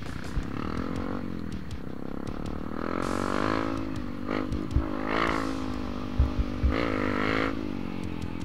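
Trail motorcycle engine revving up and down several times, its pitch rising and falling, with a few short low thumps, the loudest a little past the middle.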